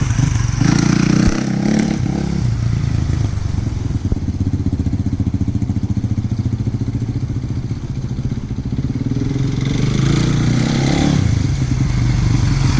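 Single-cylinder four-stroke engine of a 2016 Kawasaki KX450F dirt bike running and being revved. It is quieter through the middle and picks up again near the end.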